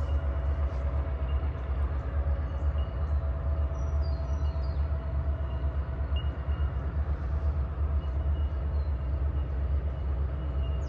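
Empty grain train running by, a steady heavy low rumble from the locomotive and wagons on the rails.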